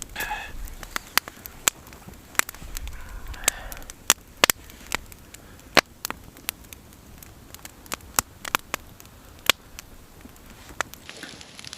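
Wood campfire crackling, with sharp irregular pops about once or twice a second.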